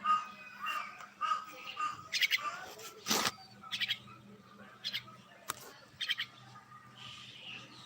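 Common mynas calling: a busy run of short whistled and harsh chattering notes. A sharp knock sounds a little past three seconds.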